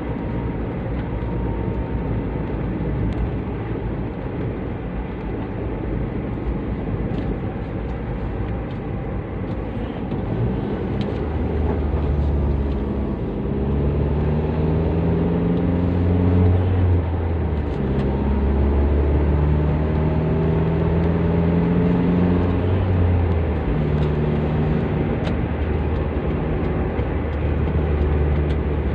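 Toyota Avanza's four-cylinder engine with a custom exhaust, heard while driving over steady road noise. From about a third of the way in, a deep exhaust drone comes up, and the engine note rises in pitch several times as the car pulls through the gears.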